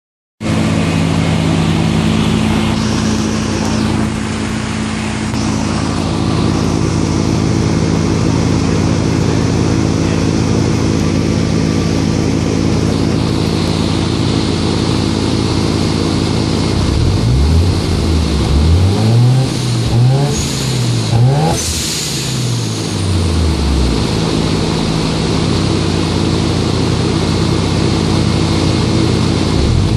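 Mazda RX-7 FC's two-rotor 13B rotary engine idling steadily on the dyno, then revved up and down several times in quick succession a little past halfway before settling back to idle; another rev begins right at the end.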